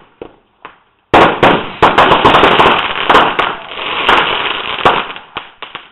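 Firecrackers going off: a few single pops, then about a second in a dense, rapid barrage of loud bangs for about four seconds, thinning to a few last pops.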